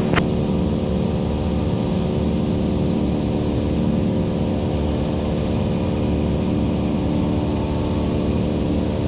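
Cessna 172's piston engine and propeller droning steadily at a constant power setting in level cruise, heard from inside the cabin.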